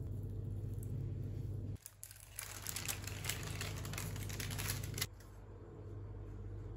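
Crinkling and rustling, like plastic or paper packaging being handled, for about three seconds in the middle, full of small crackles and clicks. Before and after it a steady low hum runs, cutting out abruptly just before the crinkling and coming back quieter after it.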